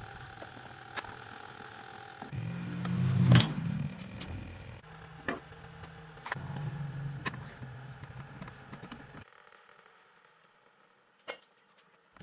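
Small engine of a mini motorcycle running and revving up twice, once sharply about three seconds in and again around six to nine seconds, with scattered clicks, then stopping abruptly; a single sharp click near the end.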